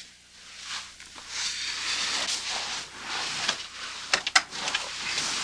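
Bedclothes rustling and shifting, then a few sharp clicks about four seconds in as a cigarette is lit in bed.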